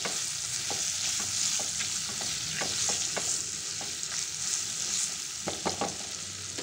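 Potato cubes and onion rings sizzling in oil and spices in a wok over a medium-low flame, with a silicone spatula stirring and scraping through them in scattered light clicks.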